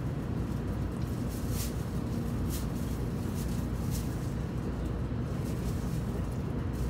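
A 700 Series Rail Star shinkansen running, heard from inside its private compartment as it pulls out of a station: a steady low rumble of the running gear, with a few faint high clicks.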